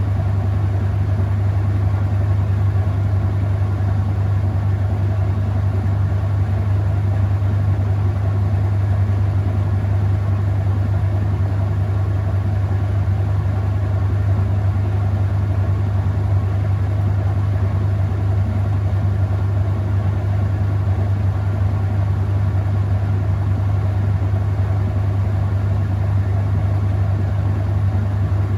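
Whirlpool top-load washing machine in its final spin: a loud, steady low hum that holds even throughout.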